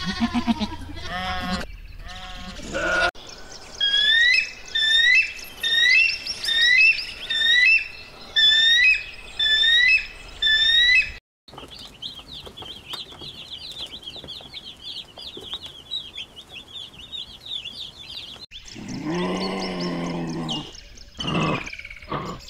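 A string of animal calls: a mouflon bleating in the first few seconds, then about ten loud chirping calls spaced under a second apart. After a brief gap comes a dense chorus of baby chicks peeping for several seconds, and low-pitched animal calls near the end.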